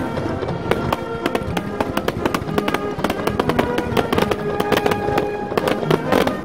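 Aerial firework shells bursting in a dense, rapid barrage, many bangs a second, with music playing along underneath.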